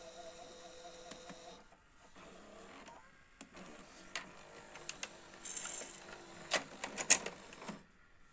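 Panasonic NV-SD300 VHS video recorder's tape mechanism whirring and clicking, with a run of sharp clicks near the end before it stops. A steady tone cuts off a second and a half in.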